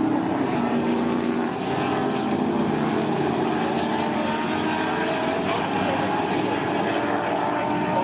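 Racing sports sedans' engines at full throttle around the circuit, a steady drone with pitch that slowly rises and falls as the cars change gear and speed.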